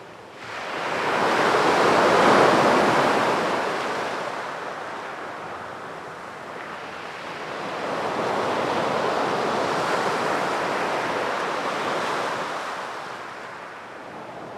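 Sea waves breaking and washing up a beach, as two slow surges of surf. The first rises sharply about half a second in and is the loudest. The second is gentler and longer, building around the middle and ebbing near the end.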